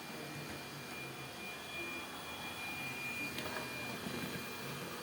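Agaro robot vacuum cleaner running with a steady high whine over its motor noise, with a light tap about three and a half seconds in.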